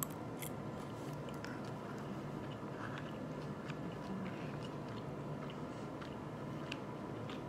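A person chewing a mouthful of food close to the microphone, with scattered small wet mouth clicks, over a faint steady background hum.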